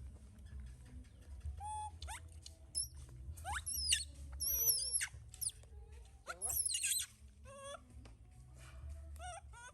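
Young monkey squealing, a run of high-pitched calls that sweep up and down in pitch, starting about a second and a half in.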